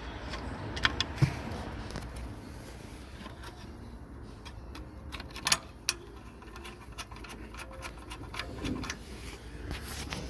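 Scattered metallic clinks and taps of hand tools, bolts and heat-shield panels being fitted, over a low steady hum. The sharpest clicks come about a second in and again around five and a half seconds in.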